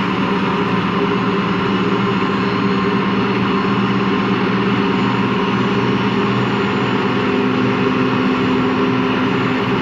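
Empty washing machine spinning: a steady hum with several held tones over a rough grinding growl, which the owner takes for worn motor or drum bearings.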